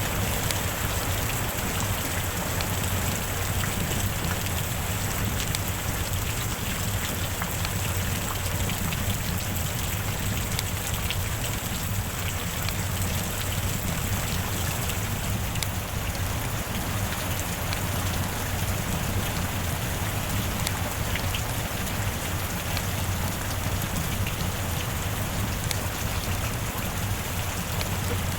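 Steady heavy rain falling on a hard surface, with many separate drop hits ticking over a constant wash of noise.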